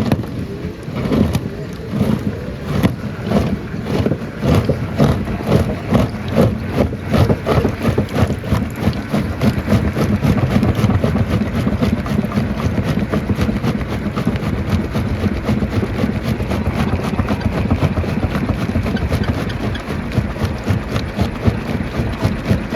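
A rock crusher running, with a steady low rumble of heavy machinery and rapid, uneven knocks of stone throughout.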